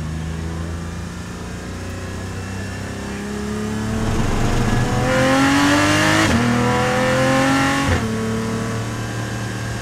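Porsche 718 Cayman GT4's 4.0-litre flat-six under hard acceleration out of a slow corner, heard inside the cabin: the engine note climbs and gets louder, then drops sharply with two quick upshifts, about six and eight seconds in.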